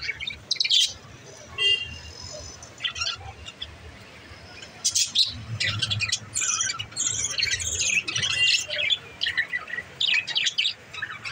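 Pet budgerigars chirping and chattering: a few scattered high chirps at first, then busy, continuous warbling chatter from about halfway through.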